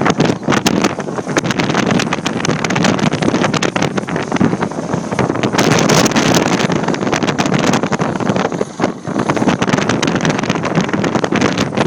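Strong wind buffeting the microphone: a loud, continuous rushing with irregular gusty thumps throughout.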